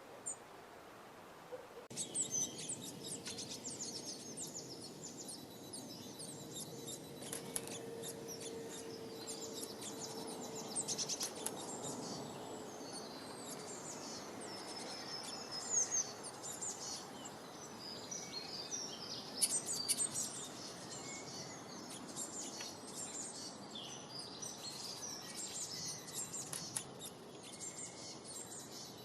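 Birds chirping and calling, starting suddenly about two seconds in: many short, high notes in quick, overlapping runs.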